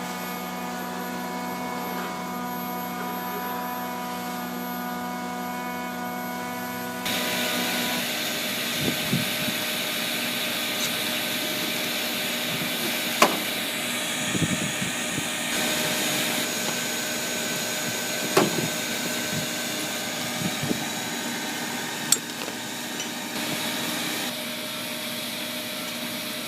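Vacuum motor running steadily. About seven seconds in it becomes louder and rushier, with scattered knocks and scraping against the duct.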